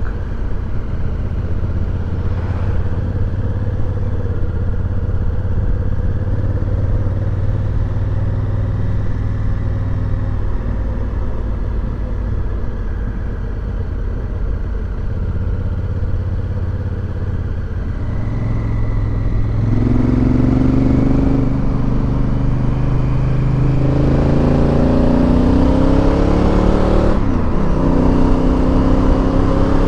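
Motorcycle engine running on the move, steady at first, then accelerating from about twenty seconds in. Its pitch rises, drops briefly at a gear change, and rises again.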